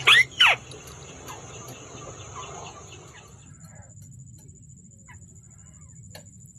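A bird giving two loud, sharp calls in quick succession, each sweeping quickly down in pitch, with a steady high thin whine and faint ticks behind.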